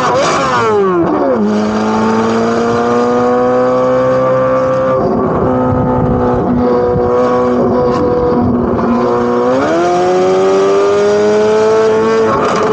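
Chevrolet Corvette C8 Z06's naturally aspirated flat-plane-crank V8, loud exhaust note. The revs fall through the first second or so, then the engine drones steadily with the pitch creeping slowly up. About nine and a half seconds in the revs climb quickly, and near the end the pitch shifts again.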